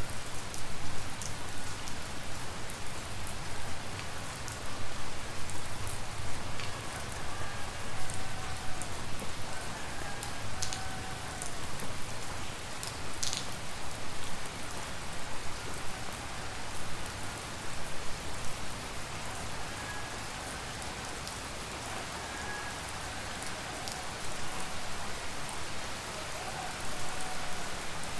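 Tropical rain falling steadily, with occasional sharp single drops striking close by.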